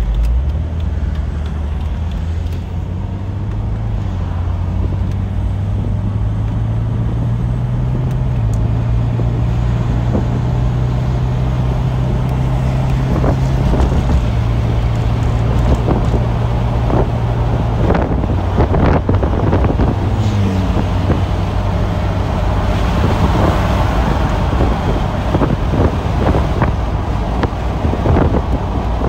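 1998 Chevrolet Corvette's 5.7-litre LS1 V8 running as the car drives, heard from inside the cabin. Its low engine note climbs in steps and drops back twice, about halfway through and again a few seconds later, as the four-speed automatic shifts. Tyre and wind noise grow stronger in the second half.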